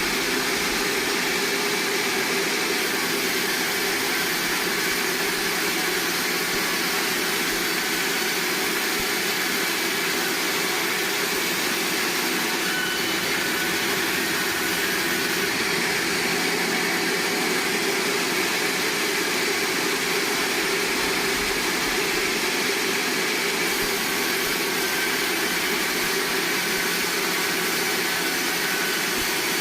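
Sawmill machinery running with a steady mechanical drone and hiss, unchanging throughout, with no distinct cuts or knocks.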